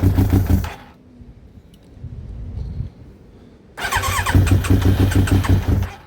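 Yamaha YZF1000R Thunderace inline-four being cranked on its electric starter with a whine and rhythmic chugging, in two attempts of a couple of seconds each, without catching. The owner thinks it probably needs a bit of choke.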